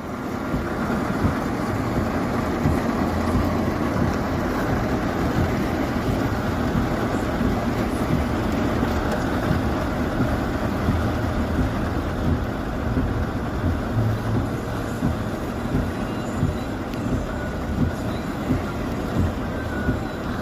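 Steady rumbling noise of a moving vehicle, with a regular knocking pulse in the second half.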